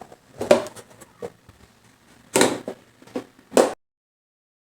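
A handful of irregular clattering knocks as kitchen containers are handled on a counter, then the sound cuts off abruptly.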